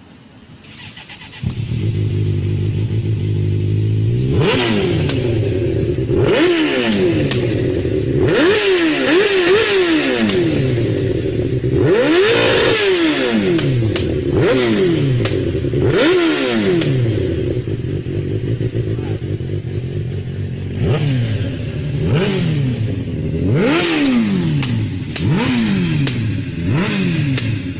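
A vehicle engine revving hard, over and over, its pitch climbing and falling with each burst of throttle. It starts suddenly about a second and a half in.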